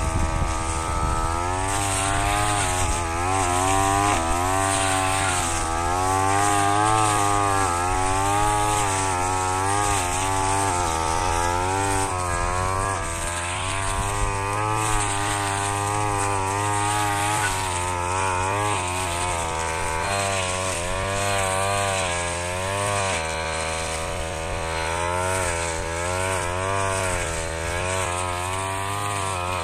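Brush cutter engine running continuously, its pitch rising and falling every second or so as the spinning blade cuts through rice straw stubble.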